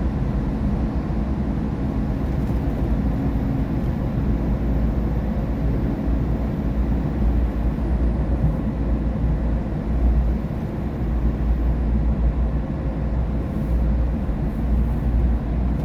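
Steady cabin noise of a car cruising on a rain-wet expressway: a low road and tyre rumble with a wet hiss over it.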